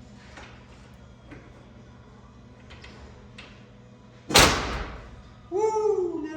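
A single loud bang about four seconds in, ringing on briefly as it dies away, followed near the end by a shouted "Woo!".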